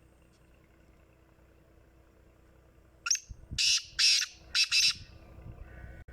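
Black francolin giving its harsh, grating call about three seconds in: a short opening note, two longer notes, then a quick final pair.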